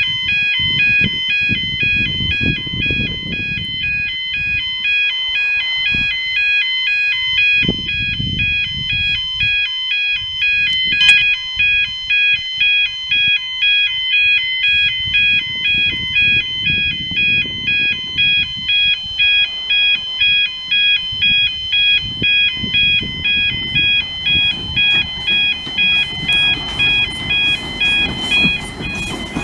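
An electronic warning alarm sounds two alternating high tones over and over without a break. From about halfway through it pulses on and off about twice a second. A low rumble rises and falls underneath.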